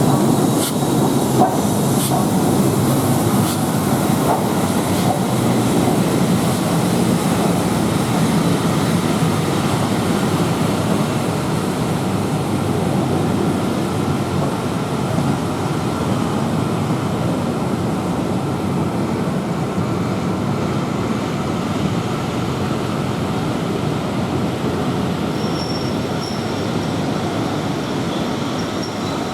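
Passenger train hauled by LMS Royal Scot 4-6-0 46115 rolling slowly through the station, a steady rumble that fades gradually, with a few clicks near the start. A thin high squeal sets in near the end.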